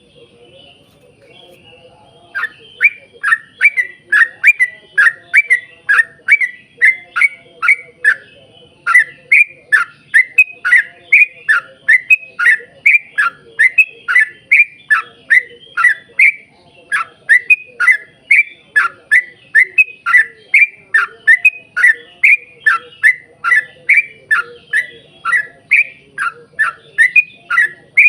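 Yellow-vented bulbul (trucuk) singing a long rapid series of short, loud, down-slurred whistled notes, about two to three a second, starting about two seconds in with a couple of brief pauses.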